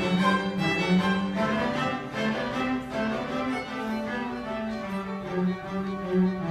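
Bowed string ensemble playing: violins over a lower cello line, with notes held and changing. The low line rises in pitch midway, then falls back.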